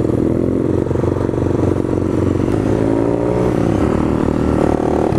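Motorcycle engine running under way, its revs rising and falling as it rides on.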